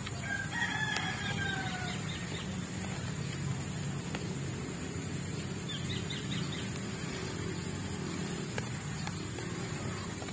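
A bird gives one drawn-out, slightly falling call lasting about a second and a half, with short chirps during it and again about six seconds in, over steady low background noise.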